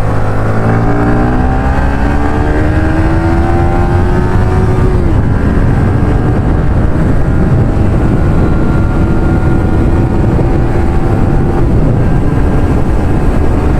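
KTM Duke 390's single-cylinder engine through a loud exhaust, accelerating hard: the revs climb for about five seconds, drop sharply at a gear change, then hold steady at high revs.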